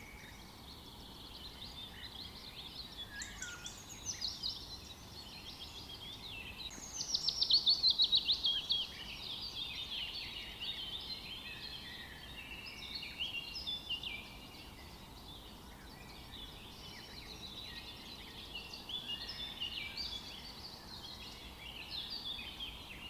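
Several songbirds singing together in a forest chorus, with overlapping chirps and short song phrases. About seven seconds in, one bird sings a loud, rapid trill of quick downward-sliding notes lasting about two seconds.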